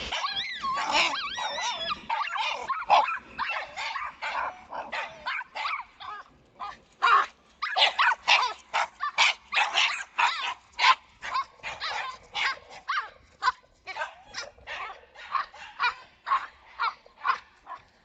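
A small puppy whining at first, then yapping in a long run of short, high-pitched barks at about two a second.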